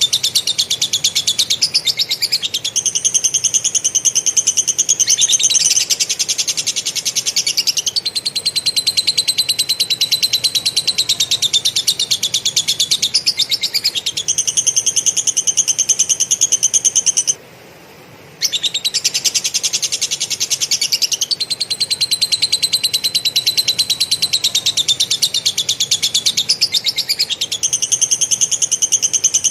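Kapas tembak (katem) songbird singing long, fast, closely packed rolling trills of lovebird-style chatter, in phrases several seconds long, breaking off for about a second midway.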